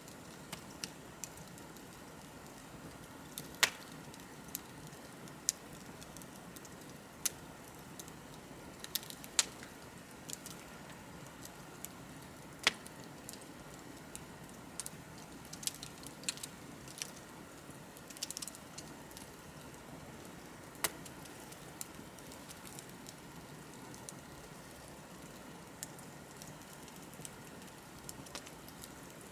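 Wood fire crackling: irregular sharp pops and snaps, a few much louder than the rest, over a soft steady hiss of burning.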